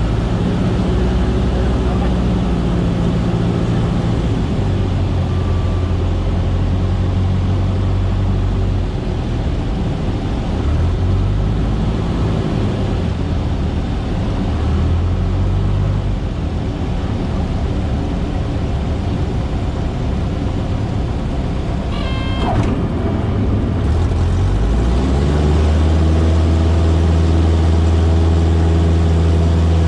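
Cessna 152's four-cylinder engine and propeller drone, heard from the cockpit, with the engine note shifting several times. About 24 seconds in the note rises as power is added and then holds steady at the higher setting; a short high tone is heard just before.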